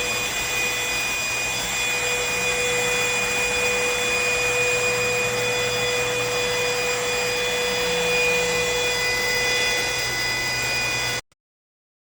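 Cordless stick vacuum cleaner running steadily: a whine of several fixed tones over a rushing hiss of air. It cuts off suddenly near the end.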